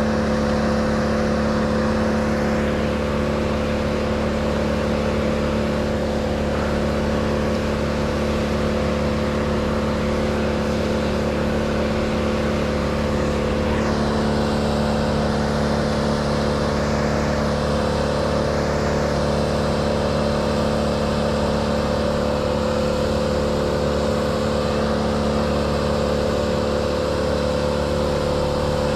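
Small engine running steadily at a constant high speed, with an unbroken buzzing whine that never lets up or changes pitch.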